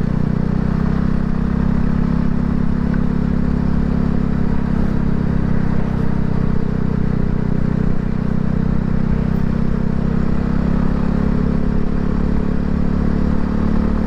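Voge 300 Rally motorcycle's single-cylinder engine running steadily at cruising speed, with wind and road noise.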